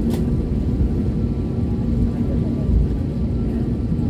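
Steady low rumble of an airliner's cabin while the plane taxis after landing, with a faint steady hum in it. A brief click sounds just after the start.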